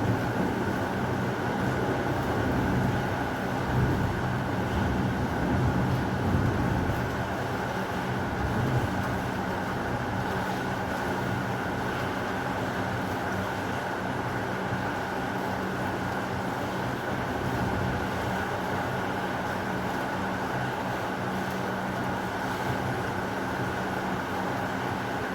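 Heavy rain falling in a steady hiss, with a low rumble of thunder that fades over the first eight or nine seconds.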